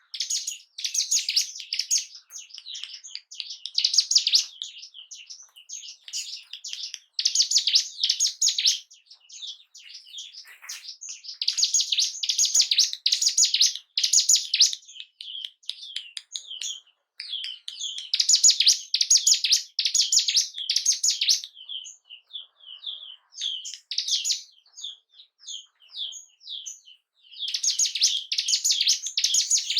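Ciblek gunung (mountain prinia) singing: fast, shrill chattering phrases of one to three seconds, repeated about every four seconds, with single sharp chirps in between. The song is used as a lure to stir caged birds of the same kind into singing.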